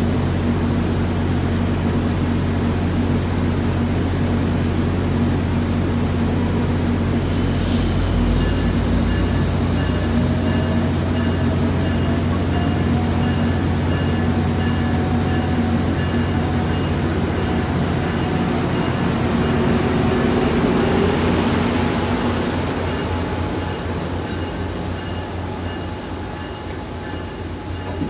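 MBTA commuter rail train moving out, with the coaches rolling past on the rails over the steady drone of its diesel locomotive. A thin whine comes in about eight seconds in and rises in pitch in steps, around twelve and twenty seconds in, as the train gathers speed. The sound eases off over the last few seconds.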